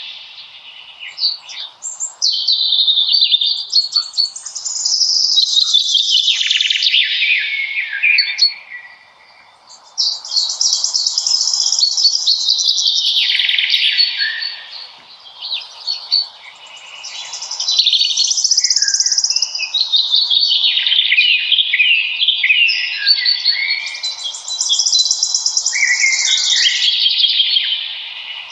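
Songbirds singing: long, rapid, warbling phrases of high song with brief pauses between them, over a faint steady hiss.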